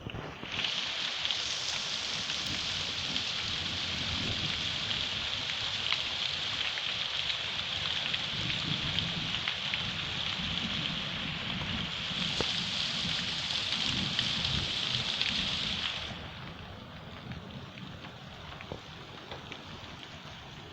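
Heavy rain during a night thunderstorm, a dense steady hiss of rain on surfaces that comes in suddenly at the start and falls away abruptly to a quieter patter about three-quarters of the way through.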